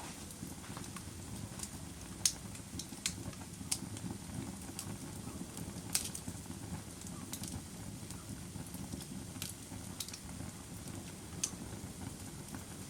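A fire crackling: irregular sharp pops and snaps, about one a second, over a low steady rumble of burning.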